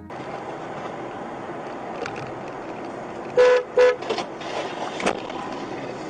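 Two short car horn honks, a quick double toot a little past halfway, over steady road and traffic noise.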